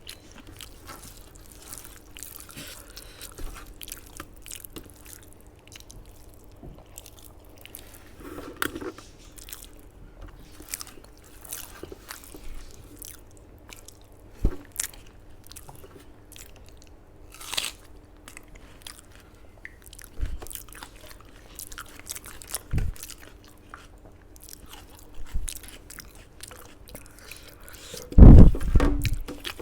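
Close-miked mouth sounds of someone eating a meal of rice and chicken curry: chewing with sharp crunchy bites now and then, and one louder, heavier burst near the end.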